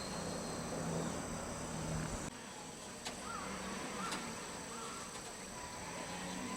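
Steady high-pitched chirring of insects, with a low engine hum under it that cuts off abruptly a little over two seconds in.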